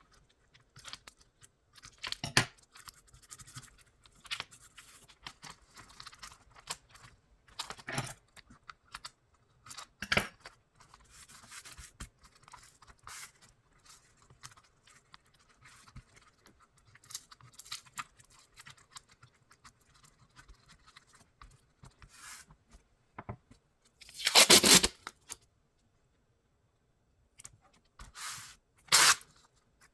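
Adhesive tape being pulled off the roll and torn, among scattered handling clicks and rustles as it is pressed onto the keyboard's parts; the loudest pull lasts about a second, near the end.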